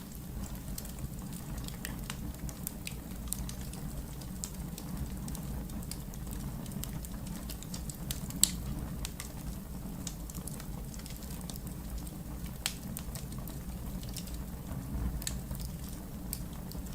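Wood fire burning in a fireplace: a steady low rumble of the flames with scattered crackles and pops, the sharpest pop about eight and a half seconds in.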